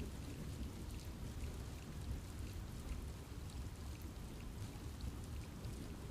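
Steady rain falling on a forest, with a low rumbling wash and many small drop ticks scattered throughout.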